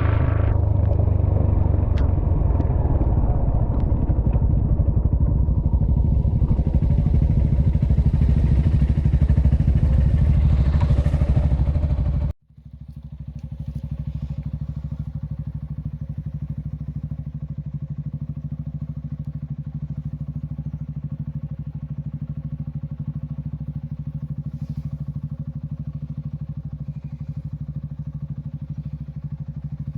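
Motorcycle engine running while riding, with wind and road rush on the microphone. About twelve seconds in it cuts off suddenly, and a quieter, steadier engine hum follows.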